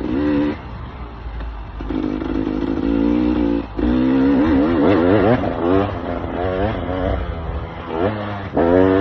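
KTM EXC 300 two-stroke enduro engine revving up and down under the rider's throttle. There are short blips, a held rev about two seconds in, and quick wavering revs from about four to six seconds in.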